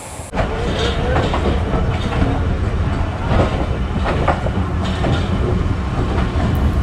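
Rehman Baba Express passenger coaches rolling along the track: a steady low rumble with irregular clicks of the wheels over the rail joints. The sound cuts in suddenly about a third of a second in.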